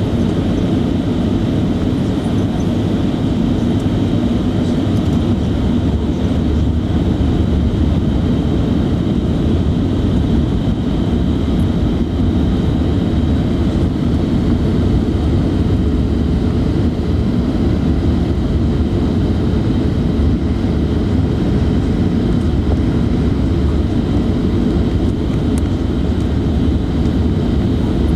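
Steady engine and airflow noise of a jet airliner in flight, heard inside the passenger cabin: a loud, even rumble with a faint steady high whine.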